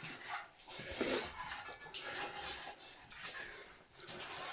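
Dogs eating from their bowls: irregular crunching and scraping, with the bowls clinking and clattering.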